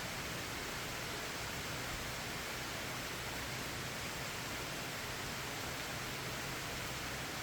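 Steady rain, a constant even hiss with no separate drops or changes.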